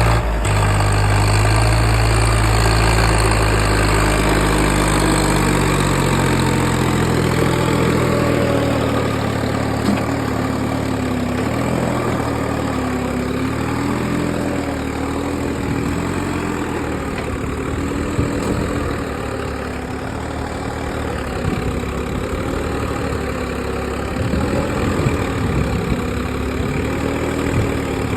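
Diesel engine of a JCB excavator running steadily, its pitch wavering a little up and down. Its deep low hum eases off after about six seconds.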